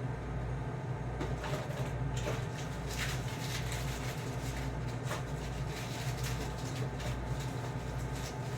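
Frozen food packages and containers being handled and shifted around, with scattered light clicks, knocks and rustles, over a steady low hum.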